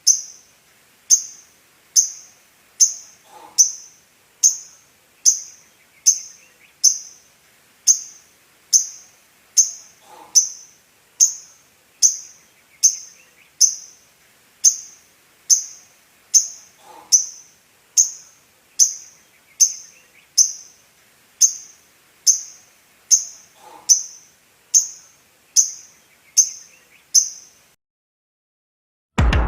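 Female lovebird calling: one short, sharp, high-pitched chirp repeated at an even pace a little faster than once a second, as in a looped lure call for male lovebirds. A fainter falling call comes in about every seven seconds, and the calls stop about two seconds before the end.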